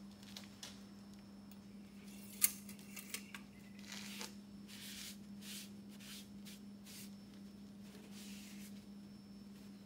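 Faint handling noises under the hood as the oil dipstick is put back after reading: one sharp click about two and a half seconds in, a couple of lighter clicks, then several soft rustles, over a steady low hum.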